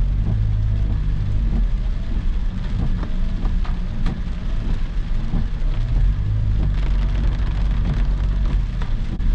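Heavy typhoon rain falling steadily, with scattered sharp raindrop impacts over a deep, steady low rumble.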